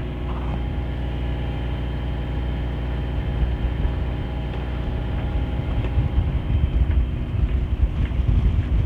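Sailing yacht's inboard engine running steadily as the boat motors along, with wind rumbling on the microphone.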